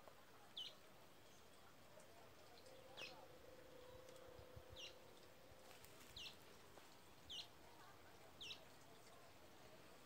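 A bird calling faintly: six short, high chirps that sweep downward, coming about a second apart in the second half.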